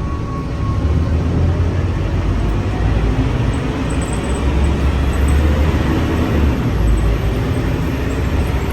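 Scania K310UA city bus's diesel engine running, a steady low drone that grows louder about a second in.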